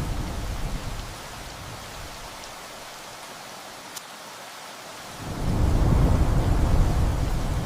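Steady heavy rain with rolling thunder. A low thunder rumble dies away within the first second, then a second rumble swells up about five seconds in.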